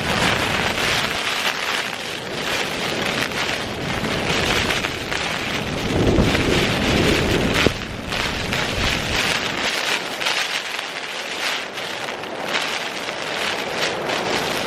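Strong gusting wind buffeting the Terra Nova Southern Cross 1 tent's flysheet, the fabric rattling and flapping, with wind on the microphone. A heavier low gust about six seconds in cuts off sharply nearly two seconds later.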